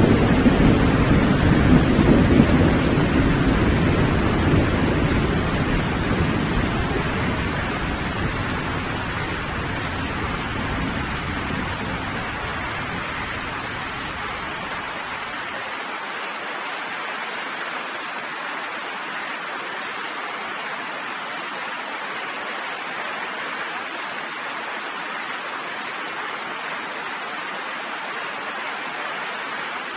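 Steady rain falling with a long, low rolling rumble of thunder that fades away over the first half and is gone about halfway through, leaving the rain alone.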